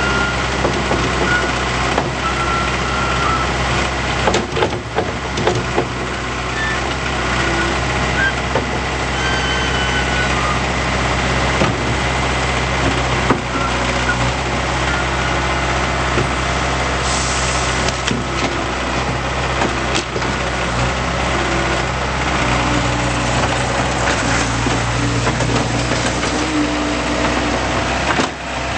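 Diesel engine of a Bobcat T190 tracked skid steer loader running steadily, with short high squeaks and scattered clicks and knocks over it from the machine at work.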